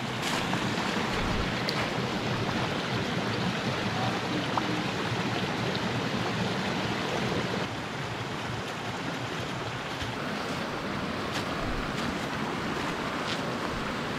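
Creek water rushing steadily over rocks, a continuous even wash; it becomes a little quieter about halfway through.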